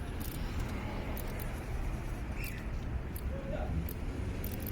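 Faint, irregular sharp clicks as a spanner is worked at the camshaft sensor to trigger the fuel injectors with the ignition on, over a steady low rumble.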